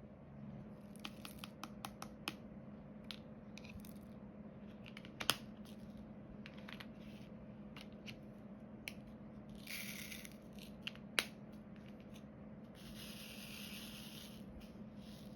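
Small scattered clicks and taps of diamond painting work, with resin drills and tools tapped against the canvas and tray, and two brief rustling scrapes, about ten seconds in and near the end. A faint steady hum runs underneath.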